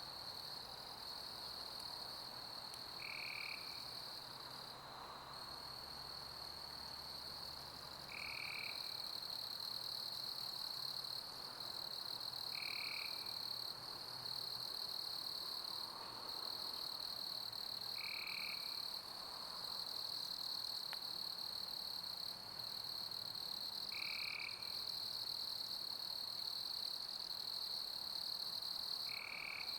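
Summer crickets chirping in a steady, continuous high-pitched chorus. A short, lower call stands out from it about every five seconds.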